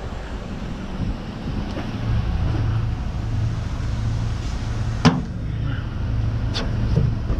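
Tow truck engine idling steadily, with two sharp metallic clanks a second and a half apart near the end.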